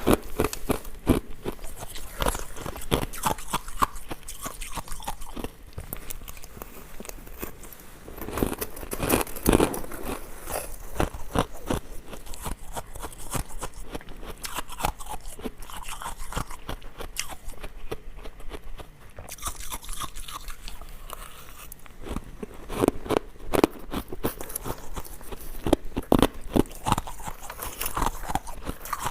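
A person biting and chewing hard ice cubes at close range: dense, irregular crunching and cracking that goes on with hardly a pause.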